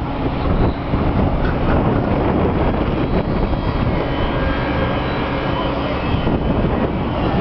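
Hitachi Zaxis ZX130 excavator's diesel engine running steadily while the machine digs out a pit.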